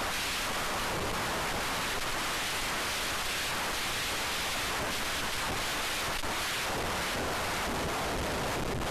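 Steady hiss of wind rushing over the microphone.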